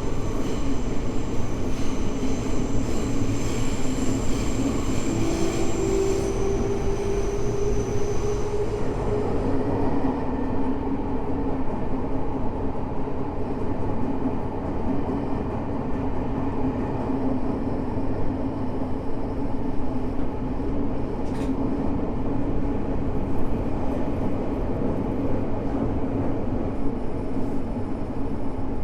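Tokyo Metro 05 series subway car heard from inside while running between stations: the Mitsubishi IGBT traction inverter and motors whine, with a tone rising in pitch during the first several seconds, then fall quiet about 9 to 10 seconds in, leaving steady wheel and running rumble. A single sharp click comes about 21 seconds in.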